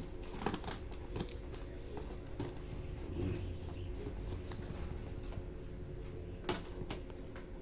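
Scattered light clicks and taps of a sealed cardboard box and its packaging being handled, with one sharper knock about six and a half seconds in, over a steady low background hum.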